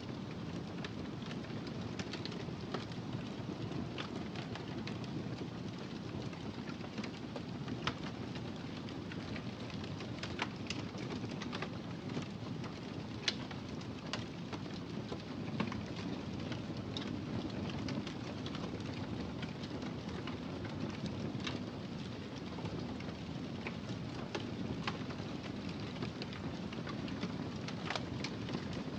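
Wood fire crackling in a fireplace: a steady low rumble of burning with scattered, irregular pops and snaps, a few of them sharper and louder than the rest.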